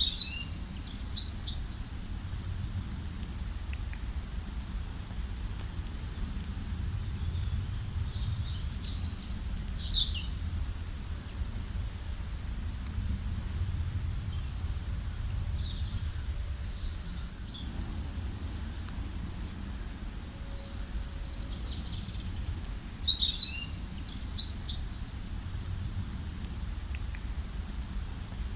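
Songbirds singing in short high-pitched phrases of a second or two, several times over a steady low rumble of background noise.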